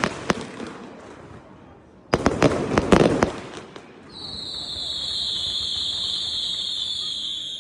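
Aerial fireworks going off. The tail of one volley of sharp cracks is heard at the start, then a dense volley of rapid crackling bangs about two seconds in. After that comes a long, steady high whistle from whistling fireworks, dipping slightly in pitch near the end.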